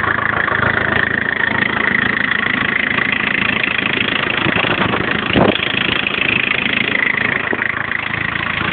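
Turbodiesel car engine running steadily, with one short thump about halfway through.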